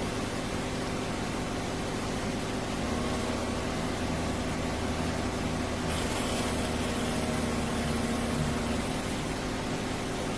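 Cuisinart Grind & Brew drip coffee maker running through its brew: a steady hiss with a low hum. A brighter hiss comes in briefly about six seconds in.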